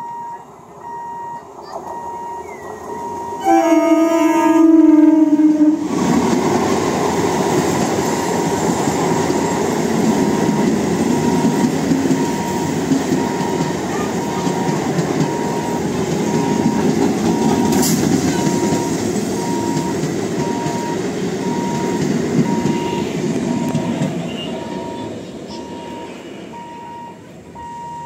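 EMU local train sounds its horn for about two seconds, then runs close past at speed with a steady rumble of wheels and coaches that fades away over the last few seconds. A level-crossing warning beeps steadily throughout.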